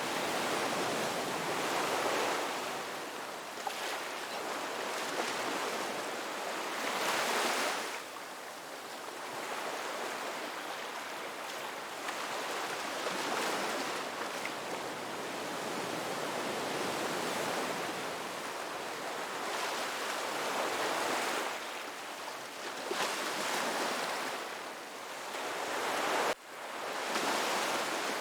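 Ocean waves breaking and washing up a beach: a steady surf hiss that swells and falls back every few seconds, with a brief sudden dip in the sound near the end.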